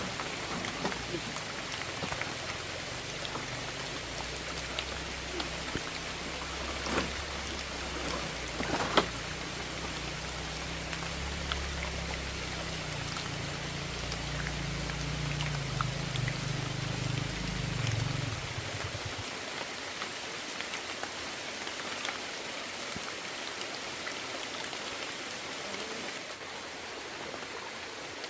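Steady rain falling as an even hiss. A low rumble runs underneath it and stops about 19 seconds in. There are a couple of sharp knocks around 7 and 9 seconds.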